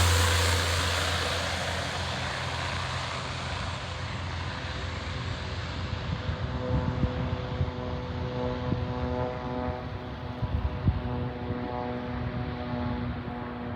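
Floatplane's propeller engine fading away over the first few seconds as the aircraft draws off. A steadier, fainter engine drone follows, with a few brief knocks near the middle.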